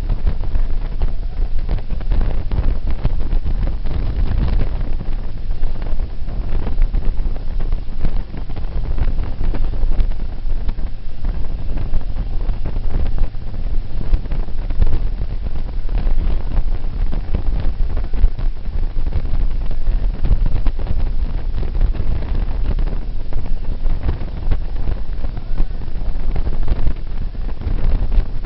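Heavy wind buffeting the microphone: a loud, continuous low rumble that flutters with the gusts.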